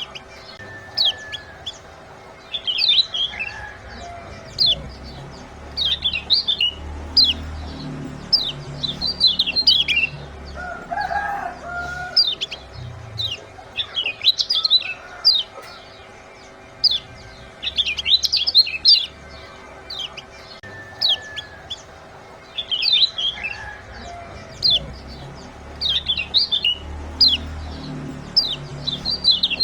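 Kecial kuning white-eyes giving rapid 'ciak' chirps: clusters of quick, sharp, high falling notes about every one to two seconds, over a faint steady hum. The recording is used as a 'masteran' to coax caged birds into singing.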